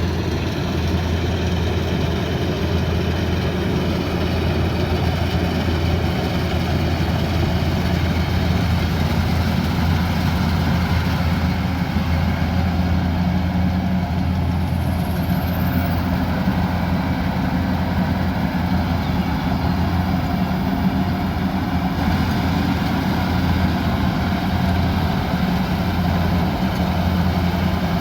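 Kubota combine harvester's diesel engine running steadily, a constant deep drone with a mechanical hum over it.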